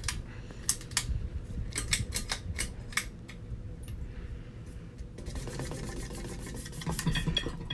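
Mainstays ceiling fan's pull-chain switch clicking several times at uneven intervals as the chain is pulled, with the chain rattling. About five seconds in, a steady whir joins as the fan motor starts turning.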